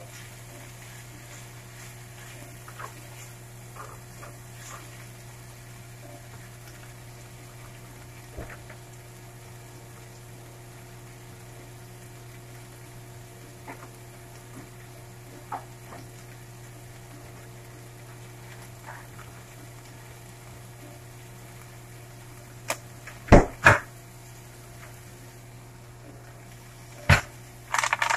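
Diced chicken, onions and peppers sizzling in a non-stick frying pan over a steady low hum, with a few scattered small ticks. A few sharp knocks come near the end.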